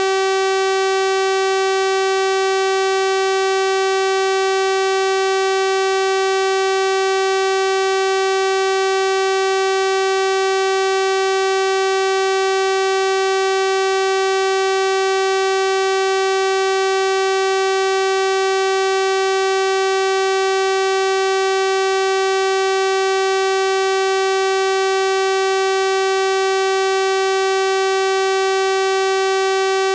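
Synthesized 384 Hz sawtooth-wave test tone, a steady buzzy hum rich in overtones, holding one pitch without change.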